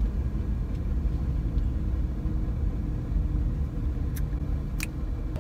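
Low steady rumble of a parked car's idling engine heard inside the cabin, with two faint clicks near the end.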